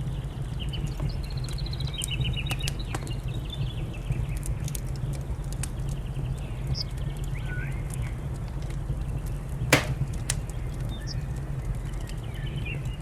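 Wood fire crackling with scattered sharp pops over a steady low rumble, while small birds chirp and trill in short phrases. A single pop about ten seconds in is the loudest sound.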